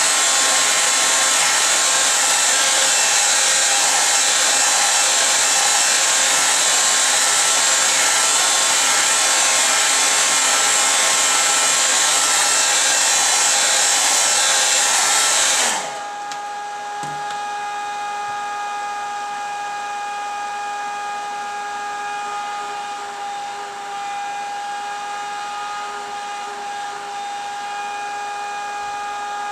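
A small electric blower runs with a steady loud rush of air for about sixteen seconds, then cuts off suddenly. After that a fainter steady electrical hum with a constant whine remains.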